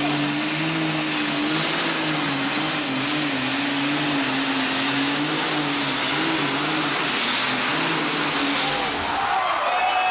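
Super stock alcohol pulling tractor running flat out under load, a loud steady engine note with a high whine over it. About nine seconds in, the engine pitch and the whine fall away as it comes off the throttle at the end of the pull.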